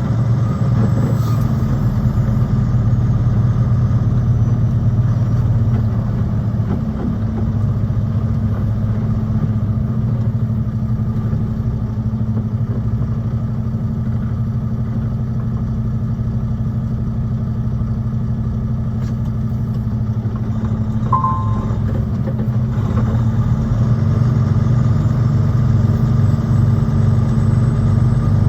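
Semi truck's diesel engine running steadily, a low drone heard from inside the cab while driving, with one short high beep about 21 seconds in.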